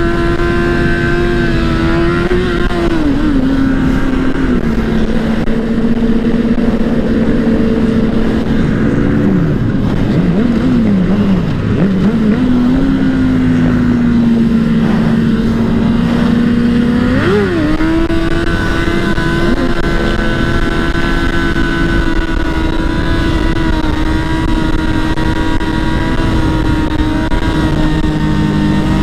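Dirt bike engine running under way, holding a steady pitch, easing off and blipping the throttle a few times near the middle, then revving back up about 17 seconds in and holding steady again.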